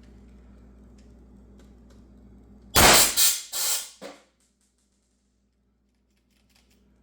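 High-powered PCP air gun firing: a loud blast, then two more rushing bursts of air within about a second as the gun vents. The owner suspects a popped O-ring let the air dump.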